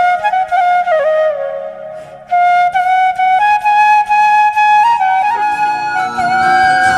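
Background music: a solo flute playing a slow melody that fades briefly about two seconds in and then resumes, with a lower accompaniment joining near the end.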